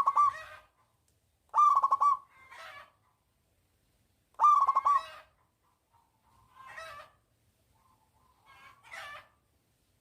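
Zebra dove (perkutut) cooing: short phrases of rapid staccato notes, each followed by a softer trailing coo. The three loud phrases come in the first five seconds, and fainter calls follow later.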